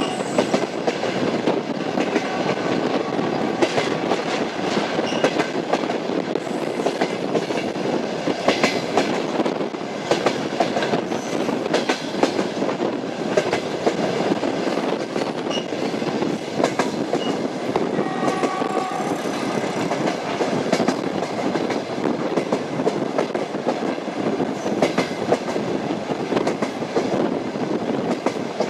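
Moving train's wheels clattering over the rail joints, a steady run of clicks over the rumble of the carriage.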